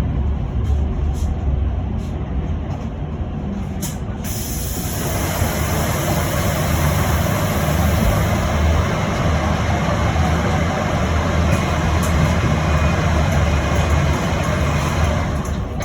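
Inside an electric bus: a steady low rumble, with a few faint clicks early, then a loud even hiss of air that sets in about five seconds in and lasts some ten seconds before dying away.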